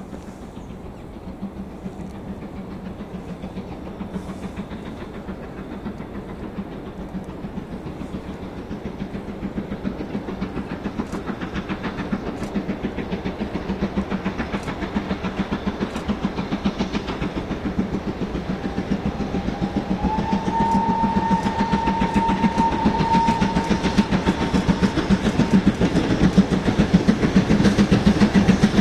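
Steam-hauled train approaching, its rapid rhythmic running growing steadily louder. About twenty seconds in, the locomotive's whistle sounds one long steady note for a few seconds.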